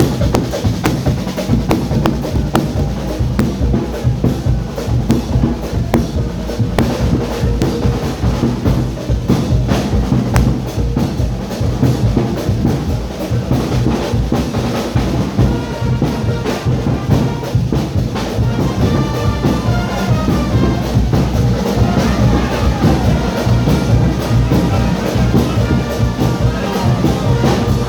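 Carnival band music: drums and percussion keep a steady driving beat under brass horns. Partway through, a brass melody comes through more clearly.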